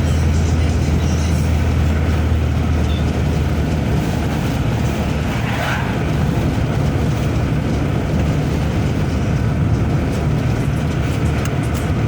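Steady engine drone and road noise inside a moving car on the highway, with a brief higher sound about halfway through.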